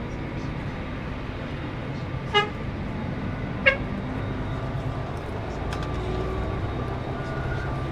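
A vehicle horn gives two short toots about a second apart, the second a little higher in pitch, over the steady low drone of a moving coach's engine and tyres.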